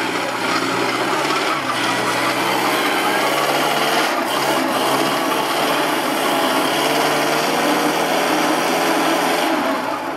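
1929 Ford Model A's four-cylinder engine revving hard and held high, a steady rasping note, as the car labours for grip in deep mud. The revs ease off near the end.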